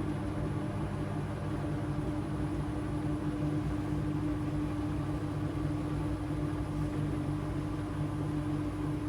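AEG 8000 Series front-loading washing machine spinning at a steady high speed, a constant motor hum with a drone over the rush of the turning drum.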